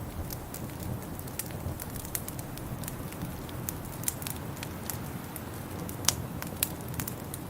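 Wood fire in a fireplace crackling, with frequent irregular sharp pops over a steady low rumble; one louder pop about six seconds in.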